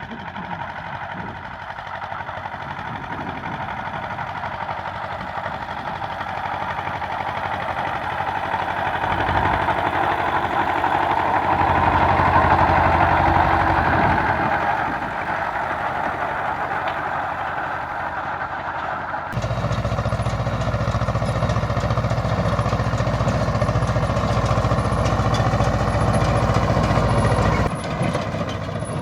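Farm tractor engine running and growing louder over the first dozen seconds, then easing a little. About two-thirds of the way through it changes abruptly to a steadier, deeper running.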